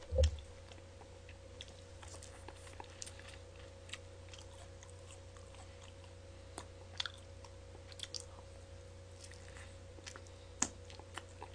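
Close-up chewing and biting of fried chicken, with scattered small crisp crunches and mouth clicks over a faint steady hum. A single dull thump comes right at the start.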